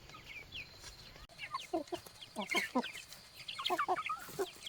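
Chickens clucking: a few faint high calls at first, then a run of louder short clucks from about a second in.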